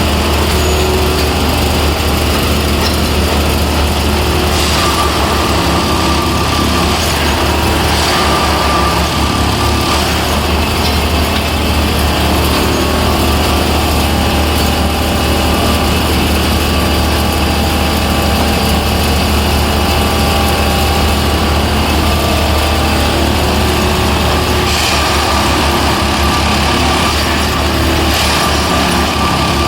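Plasser & Theurer rail-lifting track machine running steadily with its engine, with a few short metallic clatters about five, eight, ten, twenty-five and twenty-eight seconds in.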